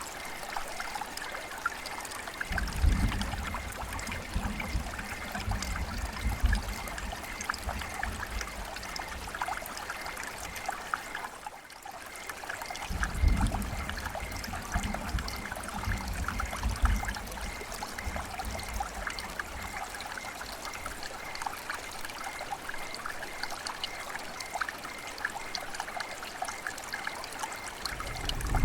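River water flowing and trickling, with many small splashes and a deep low rumble that swells and fades. The sound dips briefly about twelve seconds in.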